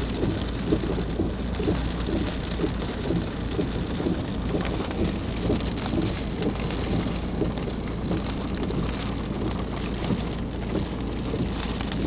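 Steady heavy rain falling during a thunderstorm, a dense even patter with a low rumble underneath.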